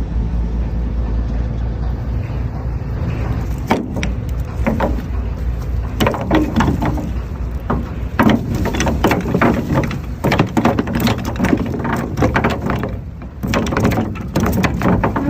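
Fishing boat's anchor being hauled aboard: a steady low engine rumble, then from about four seconds in a run of irregular sharp knocks and rattles as the anchor gear comes up.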